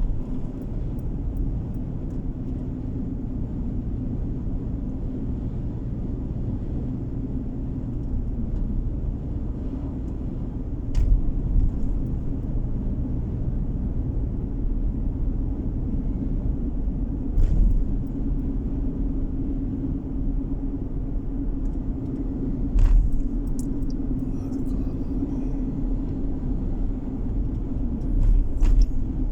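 Car driving along a road, heard from inside the cabin: a steady low drone of engine and tyre noise with a faint hum. Four short thumps come a few seconds apart, the way a car's tyres and suspension sound going over bumps or road joints.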